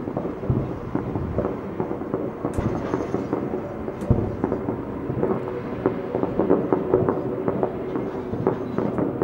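Fireworks salute: a dense, continuous run of booms and crackles rumbling into one another, with a sharper crack about two and a half seconds in and another at about four seconds.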